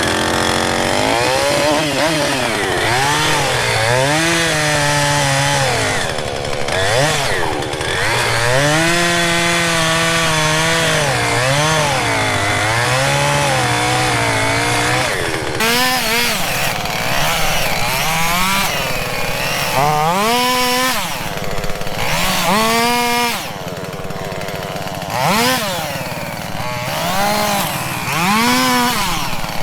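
Petrol chainsaw running while cutting a fallen tree, its engine revving up and down again and again as the throttle is squeezed and released through the cuts.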